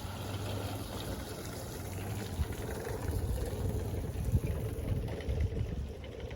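An engine idling steadily with some water noise, and a few irregular bumps.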